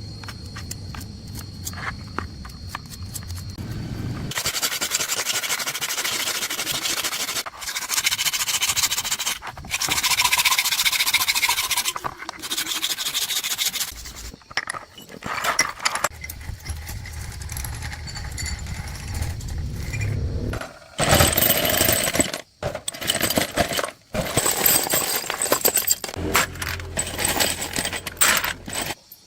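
Hand tools scraping and rubbing on engine parts during cleaning and rebuilding. The sound comes in several short cut-together stretches: a low hum in places, long passages of hissing abrasion, and short rasping strokes.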